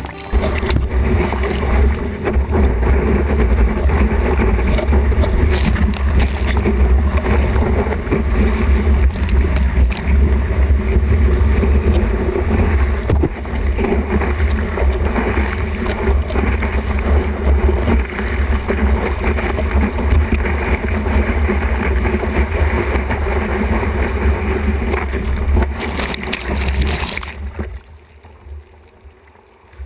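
Rushing water and wind on a GoPro action camera's microphone while surfing, with heavy low buffeting throughout; it drops away sharply near the end.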